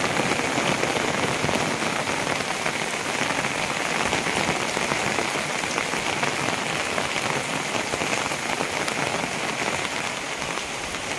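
Steady rain falling, with drops striking the fabric umbrella held just over the microphone.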